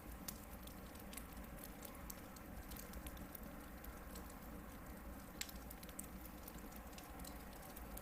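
Hardwood log campfire burning, with frequent small irregular crackles and pops and one louder pop about five seconds in.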